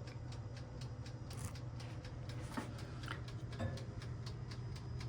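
A mechanical wind-up timer ticking steadily and quickly, about five ticks a second, over a steady low hum. A few slightly louder clicks come partway through.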